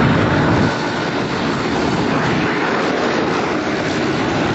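Aircraft engine noise: a loud, steady rush with no clear pitch, easing slightly a little under a second in.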